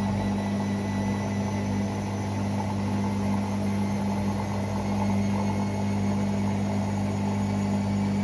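Hoover Six Sportswear 1300 (AI130) washing machine running late in its Speed Wash cycle: a steady, even hum with no change in pitch.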